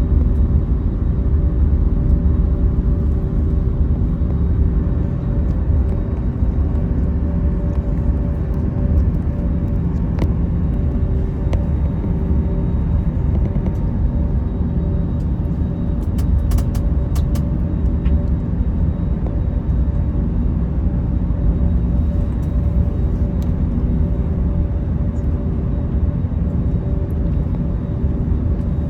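Steady engine and airflow noise of an Airbus A321 heard inside the cabin: a deep rumble with a constant hum. A few faint clicks come about halfway through.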